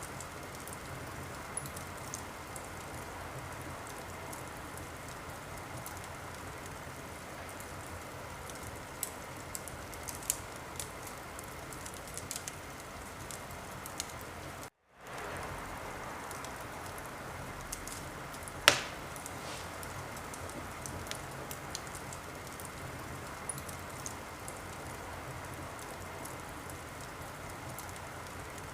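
Wood fire burning in a fireplace: a steady hiss with scattered small crackles and one loud, sharp pop about two-thirds of the way through. The sound cuts out for a moment near the middle.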